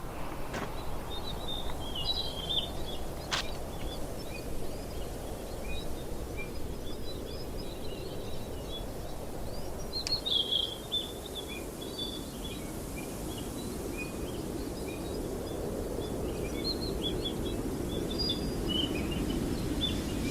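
Many birds chirping and calling in quick, scattered notes over a steady low rushing background. Three sharp clicks stand out near the start and about halfway through.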